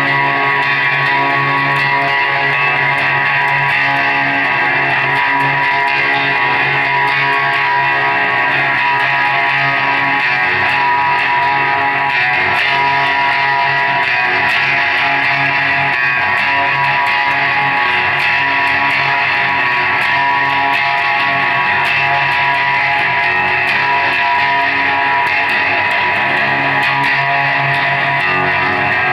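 A live band playing, led by guitar: a dense, sustained wall of held tones at a steady, loud level, with no break.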